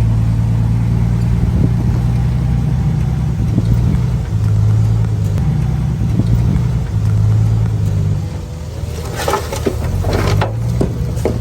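Komatsu D31PX bulldozer's diesel engine running steadily under load, easing off about eight seconds in, followed by a few sharp clanks.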